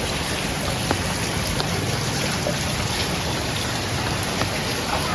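Rain falling steadily, an even hiss with a few sharper drop ticks scattered through it.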